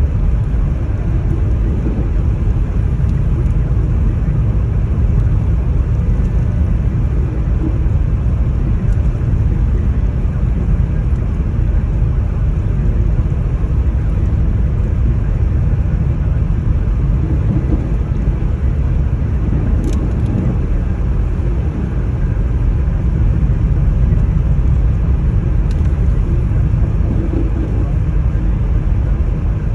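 Strong storm wind buffeting the microphone: a loud, steady low rumble.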